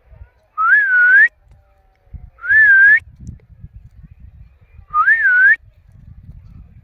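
Three short whistled phrases, each rising in pitch with a small dip before ending higher. They come about a second and a half to two and a half seconds apart.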